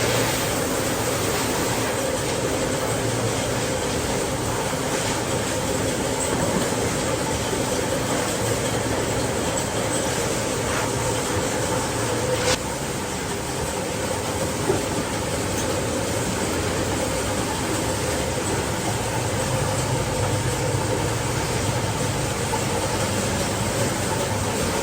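Factory machinery running steadily, a continuous mechanical noise with a faint hum, and a single sharp click about halfway through.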